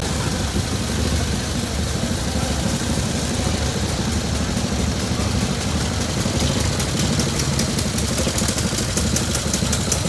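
Vintage motorcycle engine running at idle, a steady pulsing rumble. A fast high-pitched ticking joins in about halfway through.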